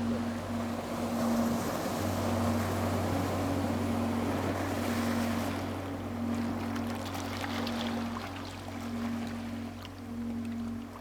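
A boat's engine running steadily with a low hum and a gently pulsing drone, over the wash of waves and wind.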